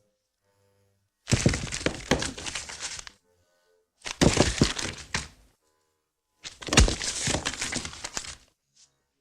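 Three bursts of clattering and cracking, each lasting one and a half to two seconds and made up of many sharp knocks.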